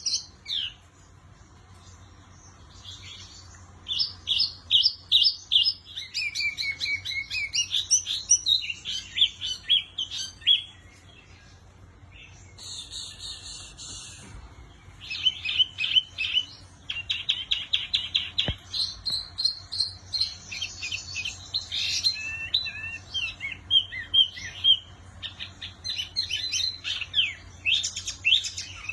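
Small cage songbird known in Indonesia as wambi mini singing energetically. It gives bouts of rapid high chirps and trilled phrases with short pauses, and a harsh buzzy note about halfway through. A faint steady low hum lies underneath.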